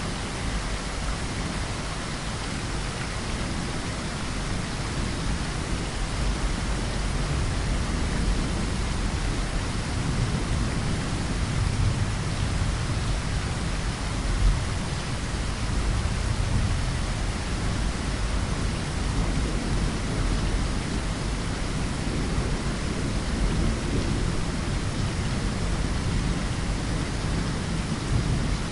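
Rain falling steadily in a forest, with a deep rumble underneath that swells in the middle, and one brief sharp sound about halfway through.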